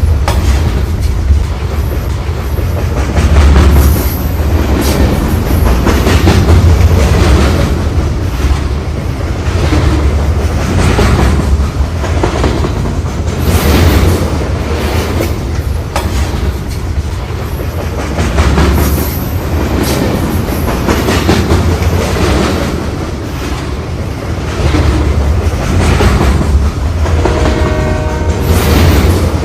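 Train running on the rails, a heavy continuous rumble with wheels clacking over rail joints at a regular rhythm. A horn sounds briefly near the end.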